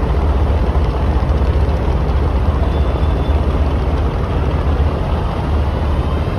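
A river passenger launch's engine running steadily, a loud low rumble.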